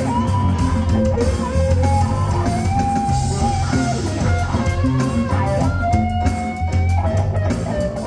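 A live band playing rock-style music, with guitar to the fore over steady bass, its held notes sliding in pitch.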